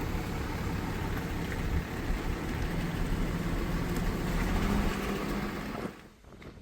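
Steady rushing roar of a waterfall, breaking off sharply near the end.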